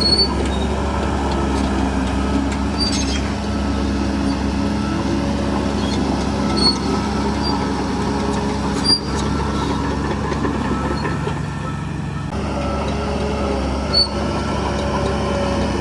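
Shantui DH17C3 bulldozer's diesel engine running steadily under work, with short high-pitched squeaks a handful of times.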